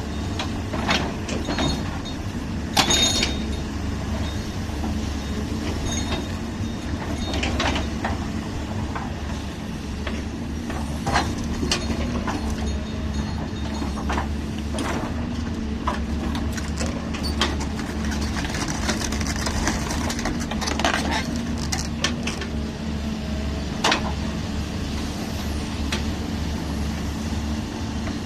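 Heavy construction machine's diesel engine running steadily, with scattered sharp clanks and knocks at irregular intervals.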